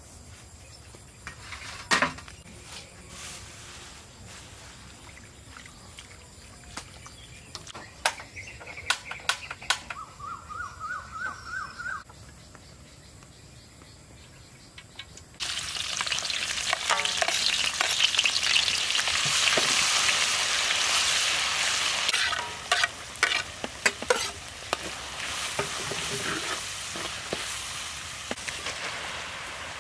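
Food frying in a hot pan: a few faint taps and clicks, then about halfway through a sudden loud sizzle that keeps going, with the clicks and scrapes of stirring over it.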